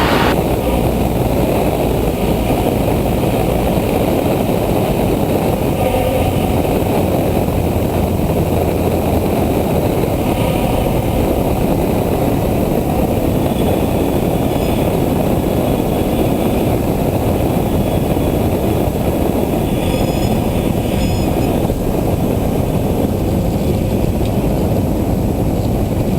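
Cockpit noise of a Cessna 172 SP on final approach: the four-cylinder Lycoming engine and propeller running steadily at reduced power, mixed with the rush of air over the airframe.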